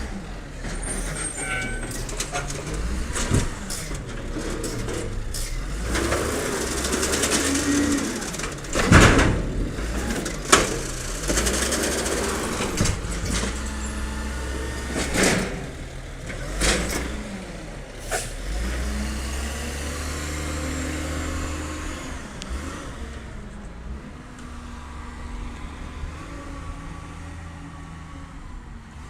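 A garbage truck's diesel engine running, with several sharp, loud bursts in the middle. The engine shifts pitch and grows fainter over the last few seconds.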